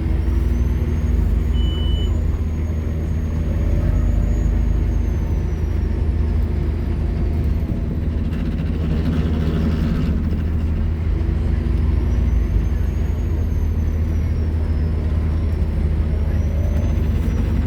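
Scania K230UB Omnilink bus's five-cylinder diesel engine running hard under way, with a high whine that rises and falls twice. A short hiss of air comes about halfway through.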